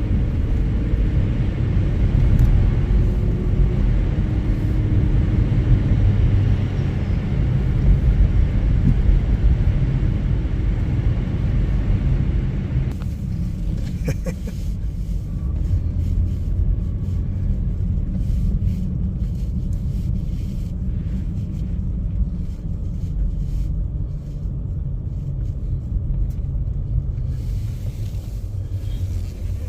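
Car driving: a steady low rumble of engine and tyre noise. A hiss over it drops away suddenly about 13 seconds in, with a few faint clicks just after.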